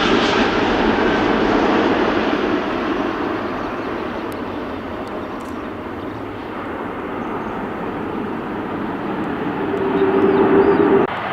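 Airliner engine noise fading gradually as the aircraft moves away, the high end dying off first. Near the end a steady hum swells, then the sound cuts off abruptly.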